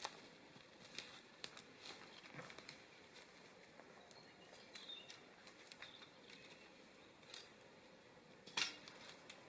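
Faint, scattered small clicks and light taps at irregular intervals, with a louder double knock near the end.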